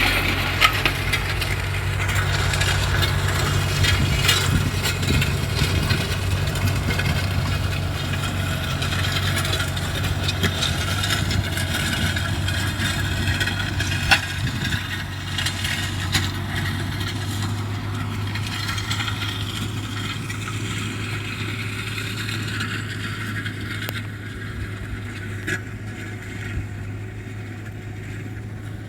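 New Holland 110 hp tractor's diesel engine running steadily, with scattered rattling and clatter as it works compacted, stony soil. The sound grows gradually fainter over the second half.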